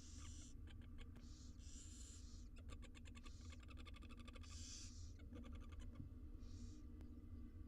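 Barn owl nestlings' hissing begging calls: several short hisses of about half a second each, with rapid runs of clicks in the middle, over a faint steady low hum.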